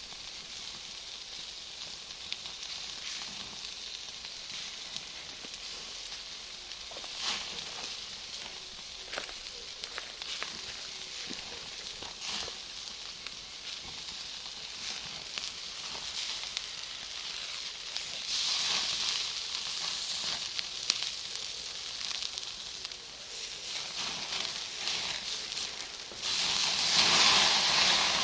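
Bonfire of firewood and Iwate cut charcoal crackling and hissing steadily, with scattered sharp pops from the charcoal. The hiss swells louder for a couple of seconds about two-thirds of the way in, and again, loudest of all, near the end.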